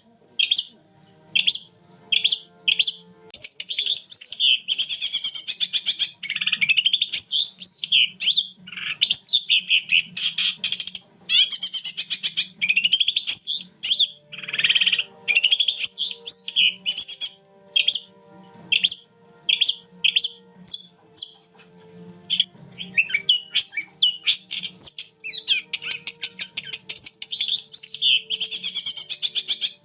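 Long-tailed shrike (cendet) in full, continuous song ('gacor'): rapid, varied high chattering and whistled phrases, with short breaks near the start and about two-thirds of the way through. This kind of non-stop singing is the sign of a fit bird in good form.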